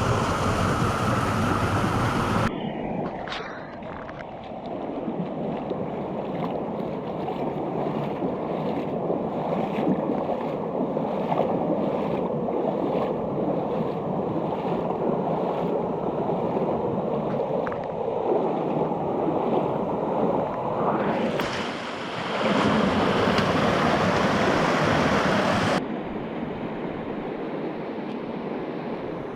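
Mountain stream water rushing and splashing as a steady noise. Its tone changes abruptly a few seconds in and twice near the end, louder and brighter in some stretches and duller in others.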